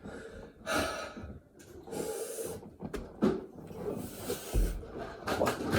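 A man breathing hard from exertion, with loud rushing breaths every second or two, and a dull thump about four and a half seconds in.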